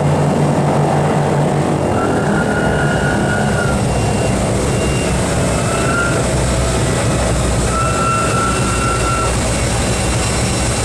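Propeller aircraft piston engines running steadily, with a faint high whine that comes and goes a few times.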